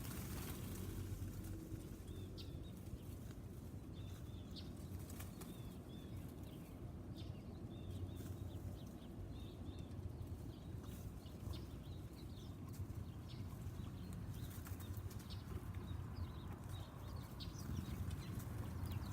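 Small backyard birds chirping in short, scattered calls, over a steady low background rumble.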